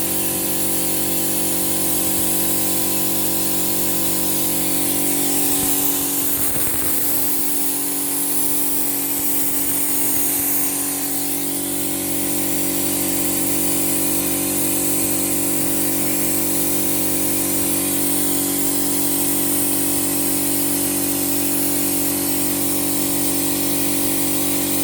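Toyota Avanza engine idling steadily while carbon cleaner is sucked into the intake, with a steady hiss over the engine's hum. The low end wavers for a few seconds around the middle.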